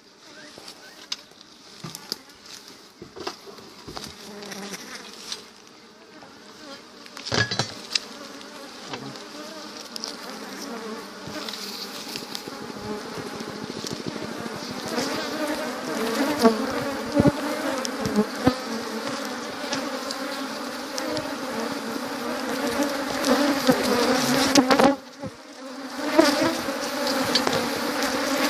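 Many honeybees buzzing together, a steady hum that swells and grows louder through the second half, with a few short knocks.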